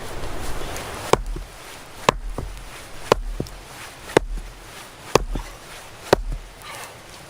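A hand tool striking wood in a steady rhythm: six sharp blows about a second apart, each followed by a fainter knock.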